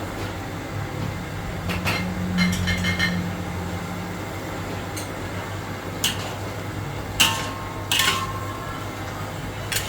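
A metal spatula clanks and scrapes against a wok during stir-frying, several sharp strikes with a brief metallic ring, loudest in the second half. A steady low hum runs underneath.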